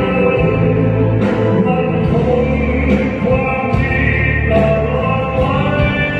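A Thai song: singing over instrumental accompaniment, with long held, sliding vocal notes.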